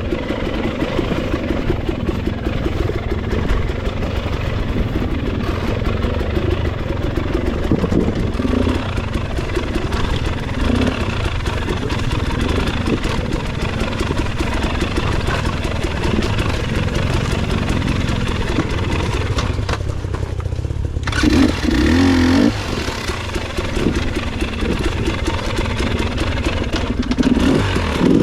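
Motorcycle engine running steadily while riding, with a brief louder stretch about three quarters of the way through.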